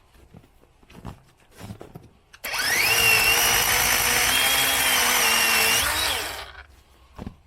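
Small cordless power saw starting up with a rising whine, running steadily for about four seconds, then winding down. A few light knocks of handling come before it starts.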